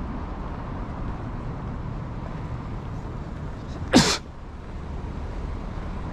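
Steady street and traffic noise, broken by one short, loud burst of hissing noise about four seconds in.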